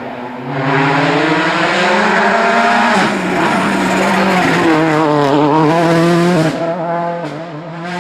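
Rally car engine at high revs passing close by, its pitch shifting with gear changes and throttle, then fading after about six and a half seconds.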